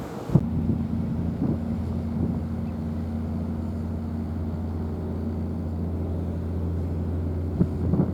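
A steady, low engine drone that starts abruptly just after the start and holds level.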